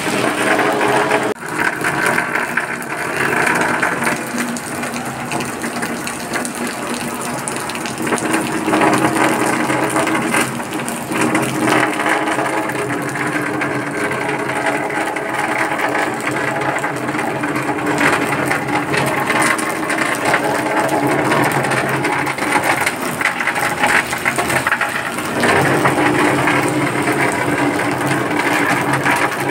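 Steady rain falling, with water splashing and running.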